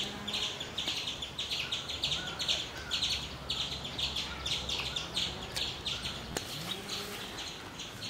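Small birds chirping, short high calls repeating a few times a second.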